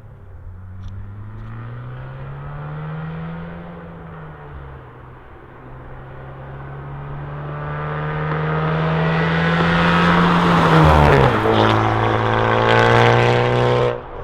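Honda Civic Type R's turbocharged four-cylinder, breathing through a catless downpipe and an open Remus valved cat-back exhaust, drives up and past. The exhaust note rises and falls a few times early on, then grows steadily louder as the car approaches, and drops in pitch as it passes about 11 seconds in.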